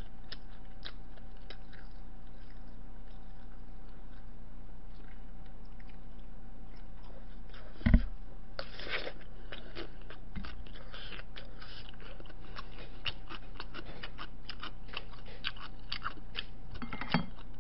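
Close-up eating sounds: chewing with many small wet mouth clicks. A single loud knock comes about eight seconds in, and a smaller one near the end.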